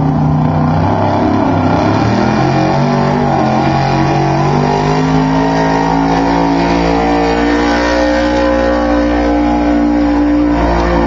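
A competition pulling truck's engine running hard at high revs during a pull, its pitch shifting and then climbing gently through the second half.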